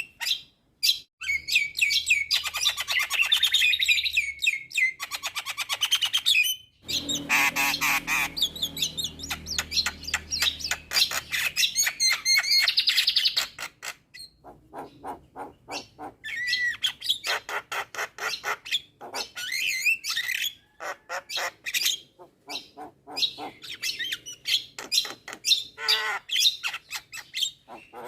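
Javan myna (jalak kebo) singing a long, varied song of rapid clicks, chirps, harsh squawks and whistled notes, packed with mimicked calls; a harsh squawking stretch comes about a quarter of the way in, with a brief lull near the middle.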